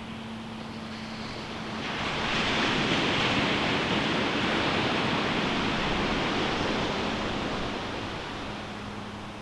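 Ocean surf on a beach: a wave breaks about two seconds in, swells to a loud wash and fades away over the following several seconds.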